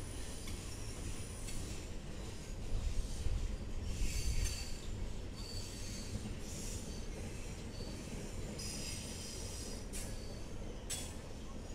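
Freight cars (loaded coal hoppers and double-stack intermodal cars) rolling past, with a steady rumble of steel wheels on rail. High-pitched wheel squeals come and go several times, and two sharp clicks sound near the end.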